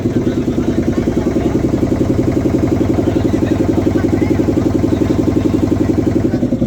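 Boat engine running steadily, with a fast, even throb.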